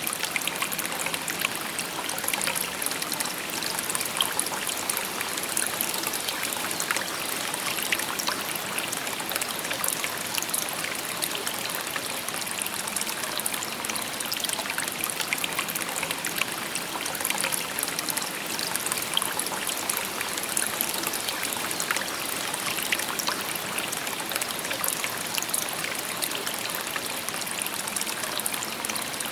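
A shallow river babbling over stones: steady rushing and trickling water with many small splashes.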